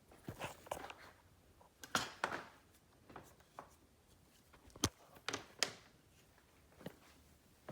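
Irregular clicks, knocks and rustles of hands at work on the car's cables and parts, with a sharp knock about five seconds in.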